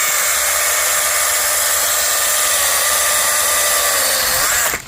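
STIHL battery-powered mini chainsaw running at full speed and cutting through a mandarin tree limb, a steady high-pitched whine that stops suddenly shortly before the end.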